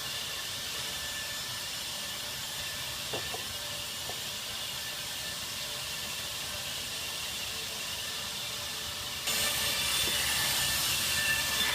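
Twin-head horizontal band resaw running: a steady hiss with faint high whining tones, which suddenly gets louder about nine seconds in.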